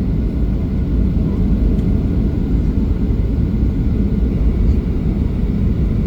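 Steady low rumble of a Boeing 737-800 airliner on final approach, engines and airflow heard from inside the cabin.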